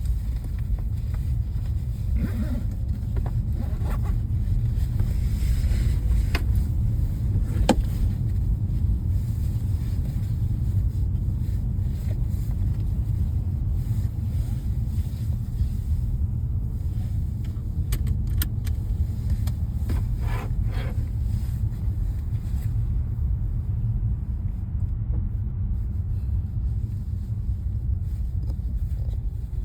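A steady low rumble, like a car running, with a few faint clicks and short knocks over it.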